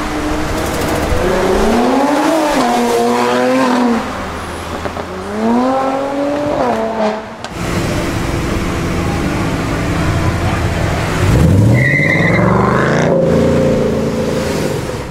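A car engine revving up and down twice. Then a Ford Mustang GT's V8 runs with a deep, steady note and accelerates hard about eleven seconds in, rising in pitch, with a brief high squeal as it pulls away.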